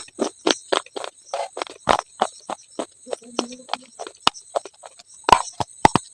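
Slate pencil bitten and chewed close to the microphone: a quick run of sharp crunches and cracks, a few each second.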